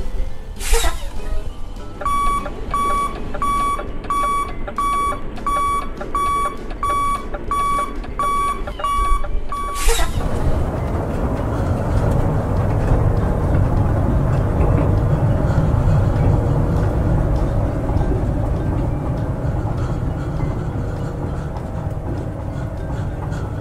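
Reversing beeper sounding a steady run of high beeps, about two a second, lasting some eight seconds, with a quick rising whoosh just before and just after it. A steady low rumble then takes over.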